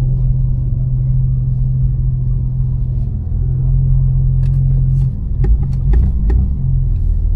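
BMW M4's tuned twin-turbo straight-six with a catless exhaust running at low speed while parking, a steady low drone. From about five to six and a half seconds in the engine note wavers, with a few short clicks.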